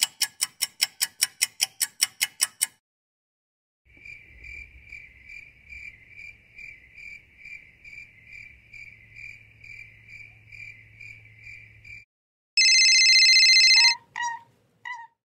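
A Rubik's cube being twisted: a quick run of clicks, about five a second. Then a cricket chirps in a steady pulse about three times a second for roughly eight seconds. Near the end a loud electric buzzer sounds for just over a second, followed by two short sharp sounds.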